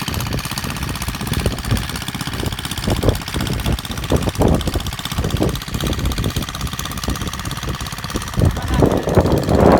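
Custom-made mini tractor's engine running steadily, with a rapid even pulsing, while it works the field.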